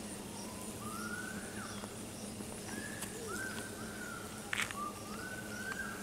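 A songbird singing several short whistled phrases that rise and fall, over a steady low hum, with a couple of sharp taps about four and a half seconds in.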